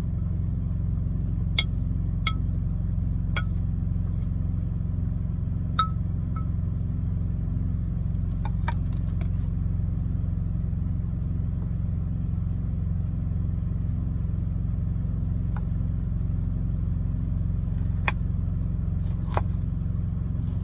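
Steady low hum of an idling truck engine, heard from inside the cab, with scattered light clicks and knocks of bowls and utensils being handled.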